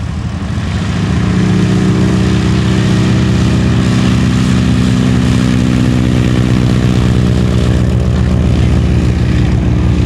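An engine running loudly, swelling up over the first second or so and then holding a steady drone.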